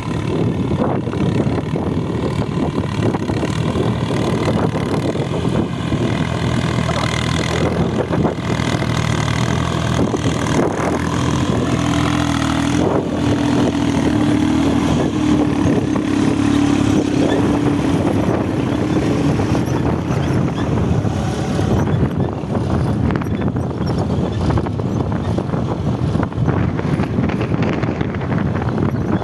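VST Shakti MT 18 HP mini tractor's engine running steadily while pulling a cultivator, with a higher steady hum joining for several seconds in the middle.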